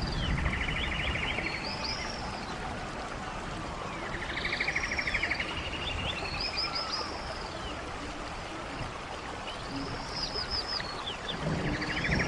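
Running water of a stream, steady, with a bird singing the same short song over and over: a fast trill with higher arching notes, three or four times.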